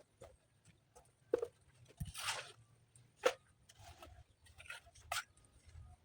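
Three sharp knocks, about two seconds apart, with a short scraping rasp between the first two, over a low background rumble.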